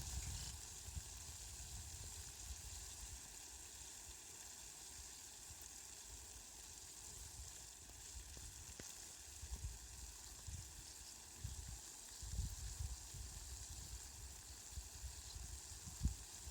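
Steady rain falling, a faint, even hiss, with low uneven rumbles coming and going in the second half.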